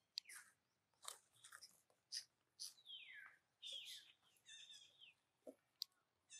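Faint birds chirping: a string of short, high calls, some sliding down in pitch, with a few sharp clicks between them.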